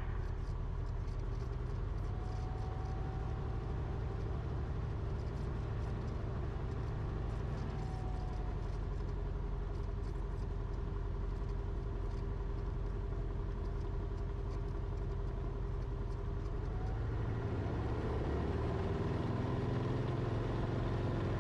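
Cessna 172RG's four-cylinder Lycoming O-360 engine running steadily at low power in the cockpit. About seventeen seconds in its note rises and grows a little louder as power comes up for the takeoff run.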